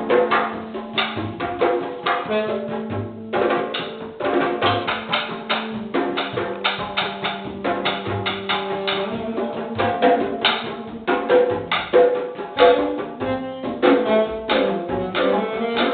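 Candombe-style drumming: a dense, steady rhythm of drum strokes with a woody clack of sticks on the drums, under long held low notes from a melodic instrument.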